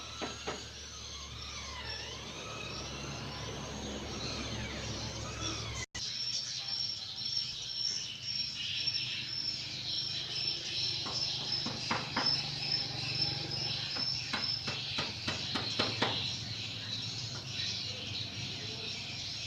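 Swiftlets chirping and twittering in rapid high-pitched calls, many overlapping. About six seconds in the sound briefly cuts out, then a long run of evenly repeated short chirps follows.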